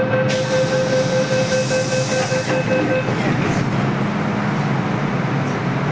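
MTR M-Train heard from inside the carriage: a steady rumble of the train running, with a steady whine that stops about three seconds in, and a burst of hissing air in the first half.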